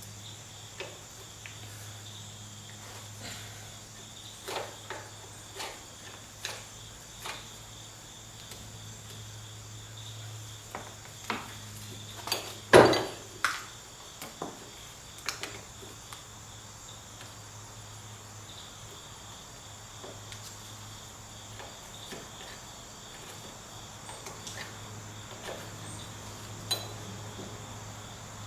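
Hand tools clinking and knocking against metal parts of a car's front suspension: scattered sharp taps, bunched in two runs, with one louder knock about halfway through. A steady high-pitched whine and a low hum run underneath.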